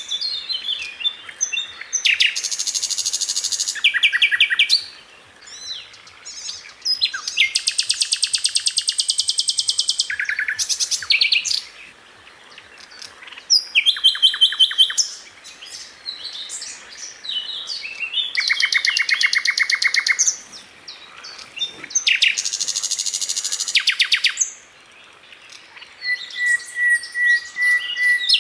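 A sikatan londo flycatcher singing: a run of high, very fast trills and rattling phrases, each a second or few long, with short gaps between them.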